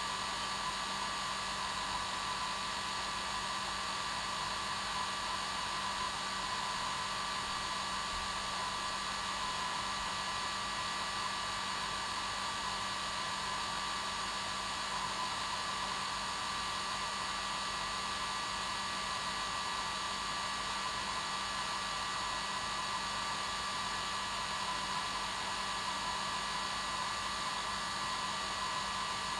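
Hair dryer running steadily on its normal setting: an even rushing hiss of air with a constant motor whine, unchanging throughout.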